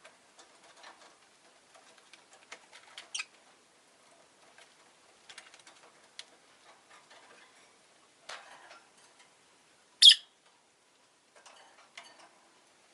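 Rosy-faced lovebird making small clicks and scratchy rustling sounds, with a short sharp chirp about three seconds in and one loud, brief high-pitched call about ten seconds in.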